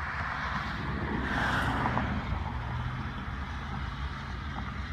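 Steady low rumble of a freight train's diesel locomotives crossing a high concrete viaduct at a distance, with a car passing on the road below about a second and a half in.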